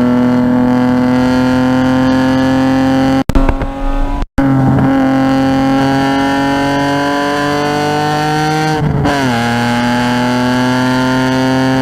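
Car engine heard onboard under hard acceleration, its pitch climbing slowly at high revs. The sound breaks up for about a second a little over three seconds in. Around nine seconds in the pitch drops quickly, as in an upshift, then climbs again.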